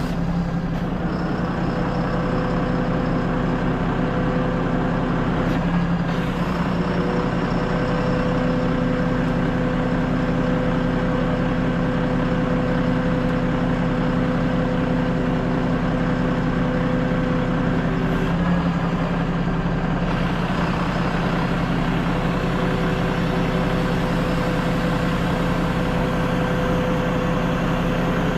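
Heavy truck engine running steadily at a constant speed, with steady whining tones over it that come in a few seconds in and drop out after about eighteen seconds.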